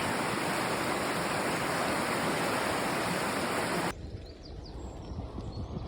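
Rushing water, an even loud hiss, that cuts off abruptly about four seconds in. After the cut, a few faint bird chirps over a low wind rumble.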